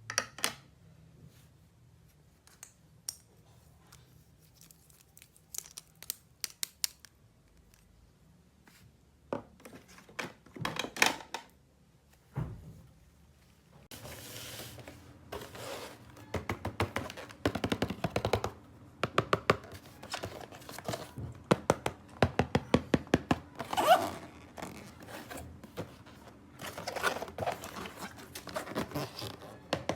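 Hands handling plastic toy pieces and packaging: scattered light taps and clicks, then, from about halfway, a busier run of clicking, rattling and rustling.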